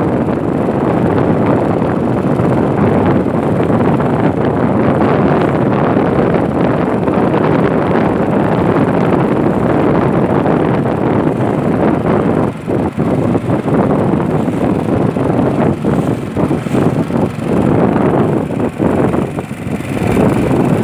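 Strong wind blasting the microphone on a small boat crossing rough river water, a loud steady rumble and rush. In the second half it turns gusty, dropping and surging again and again.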